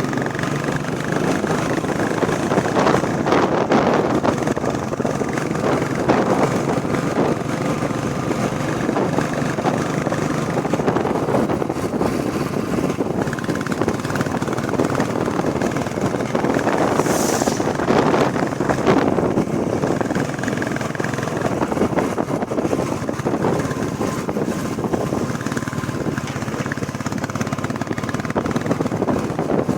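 Royal Enfield Bullet Classic 350 single-cylinder engine running steadily under way, with road noise.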